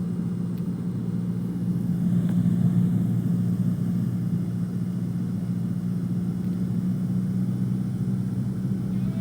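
Cessna 150's Continental O-200 four-cylinder engine and propeller droning steadily, heard from inside the cockpit, swelling slightly about two to three seconds in.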